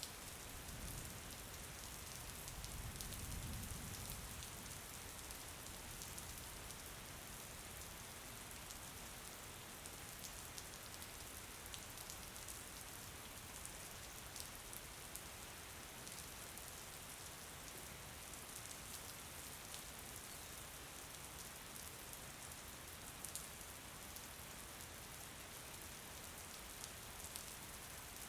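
Steady rain falling, an even hiss with scattered drop ticks. A low rumble swells and fades in the first few seconds.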